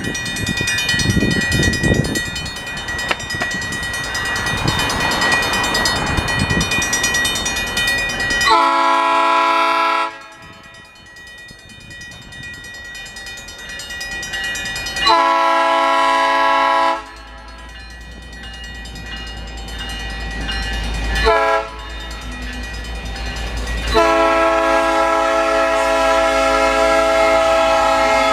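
Locomotive horn sounding the grade-crossing signal: two long blasts, one short, then one long held to the end. Before the horn, a steady metallic ringing from the crossing's Safetran mechanical bell, and a low engine rumble builds under the later blasts as the train approaches.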